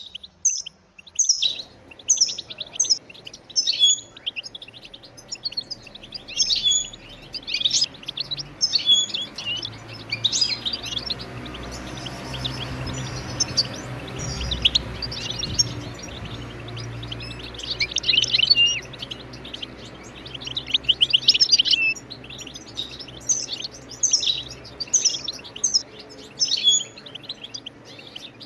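European goldfinch giving rapid, repeated short twittering call notes, in clusters with a sparser stretch in the middle.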